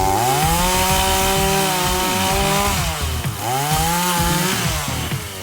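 Chainsaw running at high revs while cutting branches; its pitch dips and climbs again about three seconds in, then falls away near the end.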